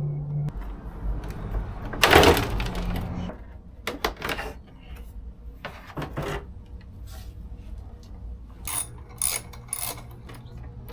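Handling noise from taking a motorcycle's fairings off: a rough plastic rustle or scrape about two seconds in, then scattered sharp clicks and clinks of panels, fasteners and tools.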